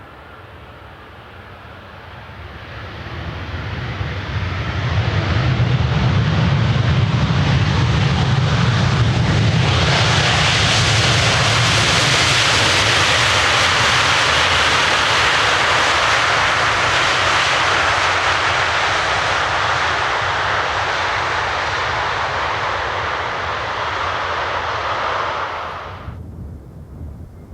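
Jet airliner's engines passing close by the runway. The roar swells over a few seconds, then holds loud and full for about twenty seconds. It cuts off suddenly near the end.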